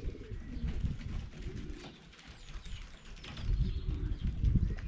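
Pigeons cooing, with a few faint high chirps partway through. A low rumbling noise under them grows louder from about three and a half seconds in.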